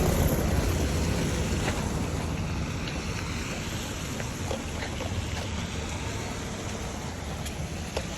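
A vehicle going past on the road and slowly fading away into a steady low rumble of traffic and road noise.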